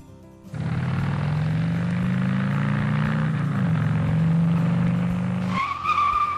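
Motorcycle engine sound effect running for about five seconds, its pitch rising slightly and then dipping once, followed near the end by a high steady squeal of about a second.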